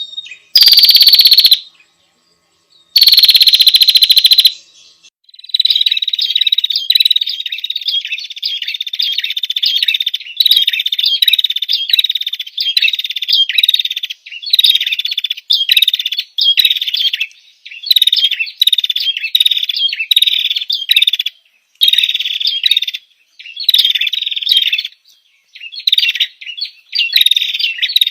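Female prinia (prenjak) calling: a rapid, high chattering of repeated notes in short bouts of about a second, with brief pauses between them. Two very loud, distorted bursts come in the first few seconds.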